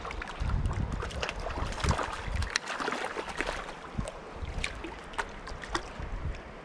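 River water splashing and trickling, with many short sharp clicks and splashes scattered throughout and a low rumble during the first couple of seconds.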